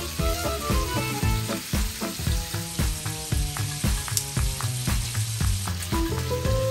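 Shrimp sizzling in butter and olive oil in a stainless steel frying pan over medium heat, stirred with a wooden spoon and turned with tongs. Background music with a regular beat plays over it.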